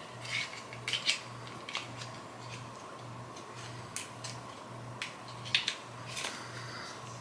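Light clicks and taps of small cosmetic items and packaging being handled, scattered irregularly over a faint low hum that pulses about twice a second.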